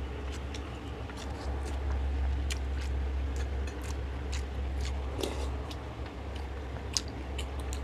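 Close-up eating sounds: chewing and lip smacks with many small wet clicks and light spoon taps, and one sharper click about 7 seconds in, over a steady low hum.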